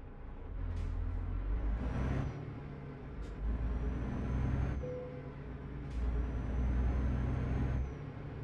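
Truck's diesel engine pulling under load in three surges, each ending in a sudden drop as between gear changes, with a faint high turbo-like whistle rising during each surge and short sharp clicks between them.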